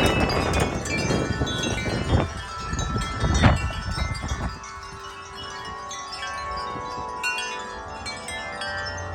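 Several wind chimes ringing in strong gusty wind, with the wind buffeting the microphone. About four and a half seconds in the gust dies down and the chimes ring on with long, clear tones.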